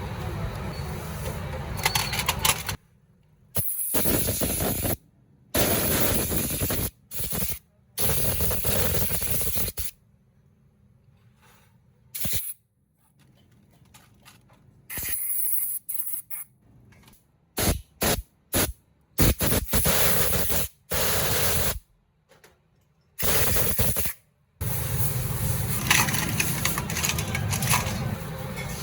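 Loud spraying hiss, heard in a string of short bursts that start and stop abruptly with quiet gaps between them.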